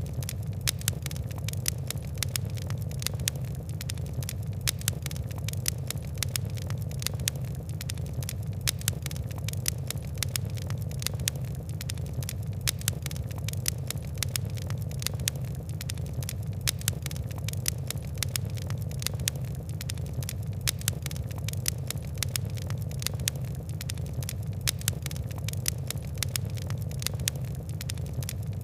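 Fire crackling: many quick, irregular snaps and pops over a steady low rumble.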